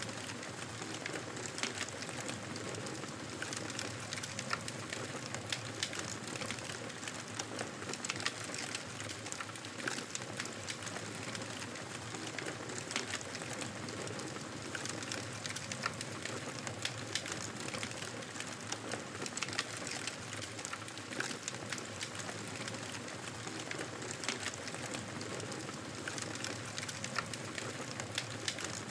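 Campfire burning with a steady hiss of flames and irregular sharp crackles and pops from the burning wood.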